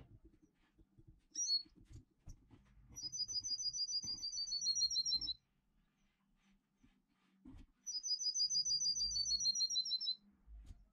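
Bird song: two trilled phrases of rapid, evenly repeated high notes, each about two seconds long and dropping slightly in pitch at the end, with a short chirp a little over a second in.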